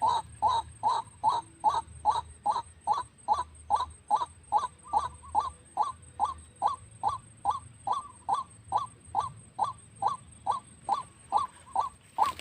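White-breasted waterhen call: one short note repeated very evenly, about two and a half times a second, with a faint steady high whine behind it.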